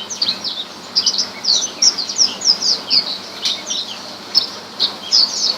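Branjangan (Horsfield's bush lark) singing a fast, varied string of short high chirps and downward-slurred notes, over a steady hiss.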